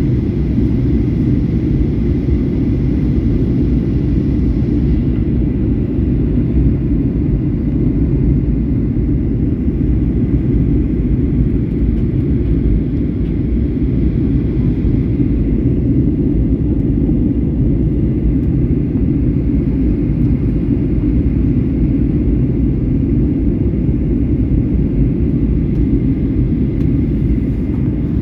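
Boeing 737-800 in flight on approach, heard inside the cabin: a steady, loud rumble of engines and airflow with a faint steady whine above it.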